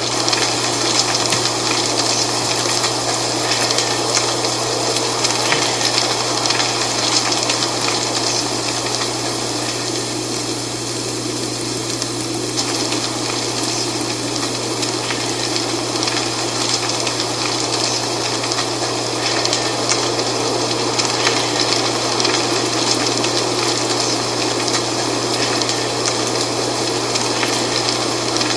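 Wind blowing through dry fallen autumn leaves: a steady rustling hiss with fine crackle, easing slightly about a third of the way in and then building again.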